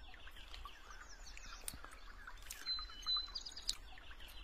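Songbirds chirping: many short, high chirps throughout, with a phrase of a held high whistle followed by a run of quick notes about two and a half seconds in.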